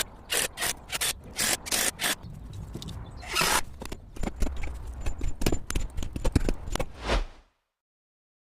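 A run of short scraping strokes from a carpentry tool working wood, a longer stroke a little past the middle, then quicker strokes that stop suddenly about seven and a half seconds in.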